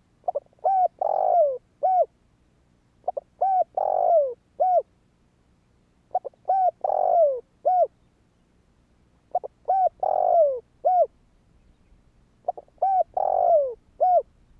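Spotted dove (Streptopelia chinensis) singing, five phrases about three seconds apart; each phrase is a few short coos, a long falling coo and a closing short coo.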